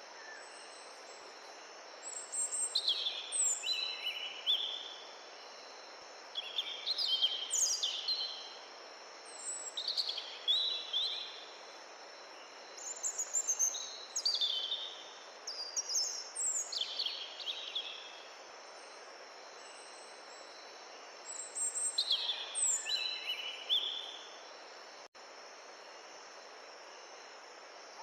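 A songbird singing short phrases of quick, descending chirps, repeated six times with pauses between, over a steady rushing background hiss. All sound cuts out for an instant near the end.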